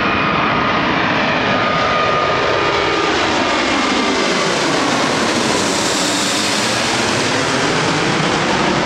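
Airbus A380's four turbofan engines at takeoff power: a loud, steady jet roar. A thin whining tone fades out in the first few seconds, and the roar takes on a slowly sweeping, phasing quality and grows brighter as the airliner passes.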